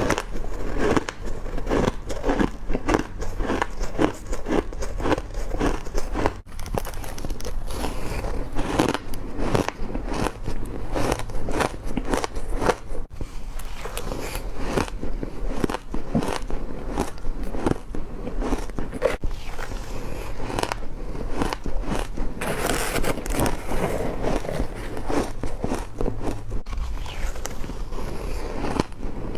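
A person biting and chewing crushed ice close to the microphone, in a dense, continuous run of crisp crunches and cracks.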